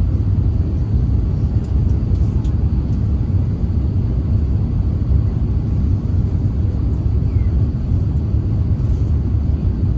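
Steady low rumble inside the cabin of an Airbus A350-900 in flight on approach: airflow over the fuselage and its Rolls-Royce Trent XWB engines, even and unbroken.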